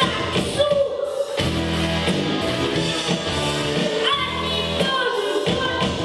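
A child singing a pop song over a recorded backing track, holding notes with a slight waver in pitch.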